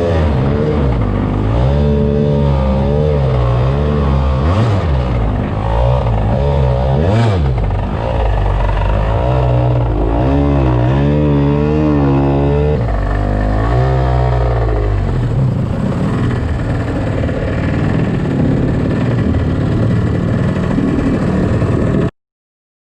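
Kawasaki JS300 single-cylinder two-stroke jet-ski engine driving a micro jet boat, its pitch rising and falling repeatedly with the throttle, then running steadier from about fifteen seconds in. The sound cuts off suddenly near the end.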